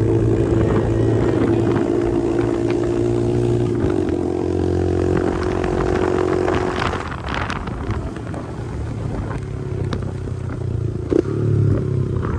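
Pit bike engine running hard at a steady high speed, then its note drops to a lower, rougher running about seven seconds in, with a few clattering knocks.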